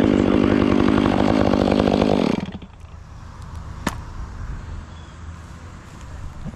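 Chainsaw running steadily, then shut off about two seconds in. A single sharp click follows a little later.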